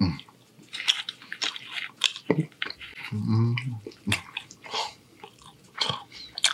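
Close-miked chewing of shrimp angel hair pasta: wet smacks and mouth clicks, with a short low hum from the eater about three seconds in.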